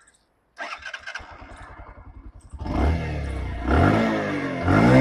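Bajaj Platina 110 ABS's single-cylinder air-cooled engine cranking for about two seconds, catching and starting, then blipped twice so its exhaust note rises and falls. It is not a loud exhaust, as expected of a 110cc commuter bike with a short silencer.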